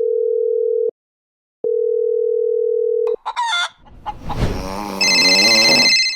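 A steady electronic telephone-style tone sounds twice with a short break between. Then a rooster crows, with a high electronic beeping tone over the end of the crow.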